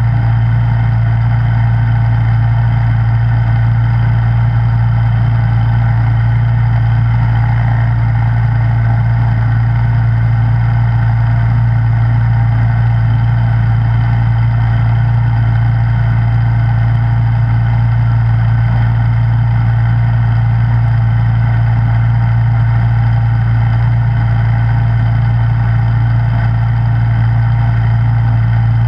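Snowblower engine running steadily at a constant speed, with a strong low hum.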